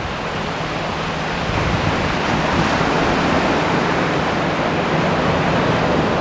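Ocean surf washing on a beach: a steady rushing noise that swells slightly about a second and a half in, over a low steady hum.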